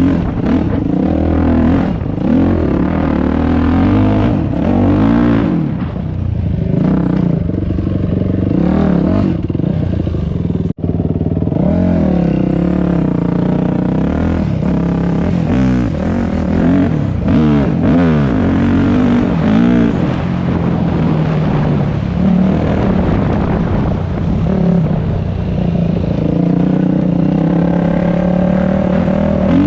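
Dirt bike engine running hard along a trail, its pitch rising and falling again and again as the rider revs and shifts. The sound drops out for an instant about eleven seconds in.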